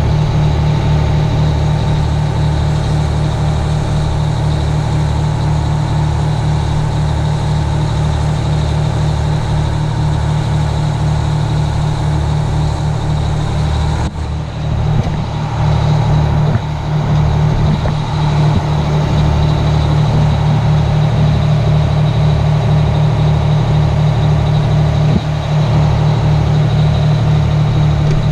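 Two-stroke Detroit Diesel engine of a 1980 Howe fire truck running steadily with a fast, even pulsing beat. The sound dips briefly about halfway through, then carries on.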